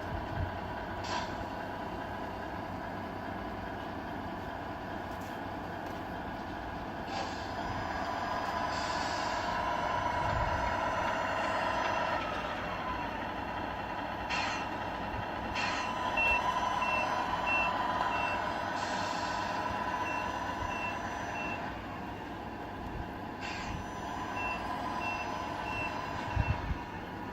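Tamiya RC model trucks' electronic sound units playing a running truck diesel, with several short air-brake hisses. A reversing beeper sounds in a run of steady beeps a little past halfway through and again near the end.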